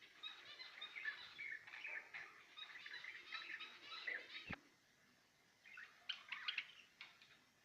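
Small caged birds chirping and twittering in a busy, overlapping chatter. A single sharp click comes a little past halfway; after it the chatter thins out to a brief burst of chirps.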